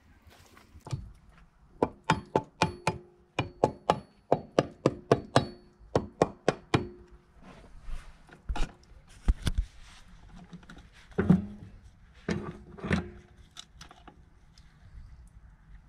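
Sharp metal-on-metal knocks from hand work on a motorcycle engine being disassembled, each with a short ring. They come in a quick run of about three a second, then a few heavier, duller knocks later on.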